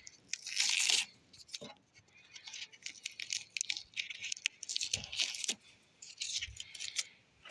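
Masking paper and tape being peeled and ripped off a truck door, with the paper crinkling. There is a loud rip about half a second in, and more tearing and crinkling about four and six seconds in.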